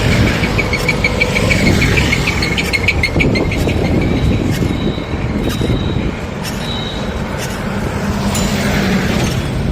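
Road traffic and wind rumble while cycling along a busy road. A rapid run of high chirps, about ten a second, sounds during the first three seconds.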